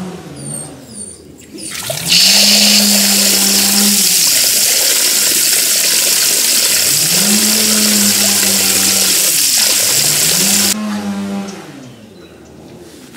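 Cattle mooing, four long calls, over a loud rush of running water that starts suddenly about two seconds in and cuts off near the end. A few short high chirps come at the start.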